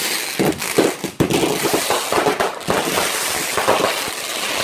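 A multi-shot firework box (cake) firing its shots in rapid succession, a dense string of bangs that come out very fast, like very fast rockets.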